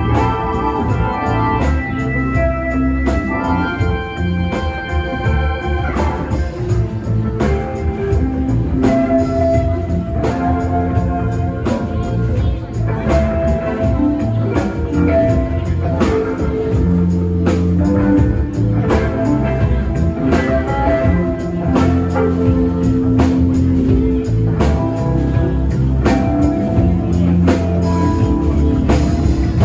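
Live band playing an instrumental passage: sustained chords over a steady drum beat.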